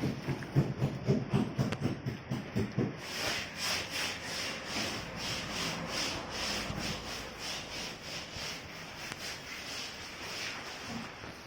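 Hand sanding of fiberglass: rhythmic rubbing strokes, about two a second, starting a few seconds in and fading near the end.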